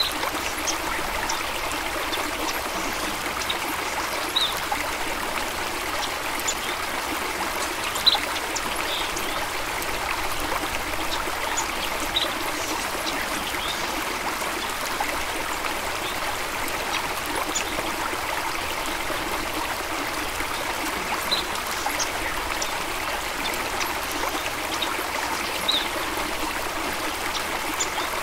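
Small stream running and trickling steadily, with a few brief higher plinks scattered through it.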